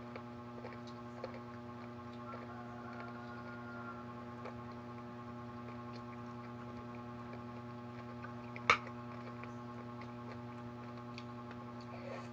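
Faint eating sounds with small scattered clicks over a steady electrical-sounding hum, and one sharp click or tap about nine seconds in.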